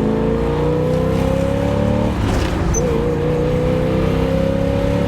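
A 1967 Chevrolet Impala SS's 396 big-block V8 accelerating hard, heard from the open convertible's cabin. The engine pitch climbs in second gear, drops at an upshift about two seconds in, then climbs again under load.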